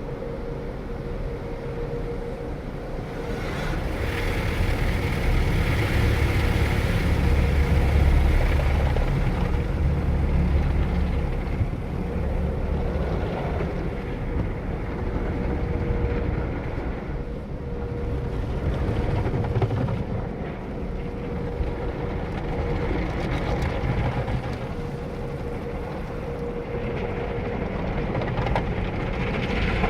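Automatic car wash equipment running: a steady, noisy rumble under a constant machine hum, with louder swells of hiss and rumble, the strongest about a third of the way in and another near the end.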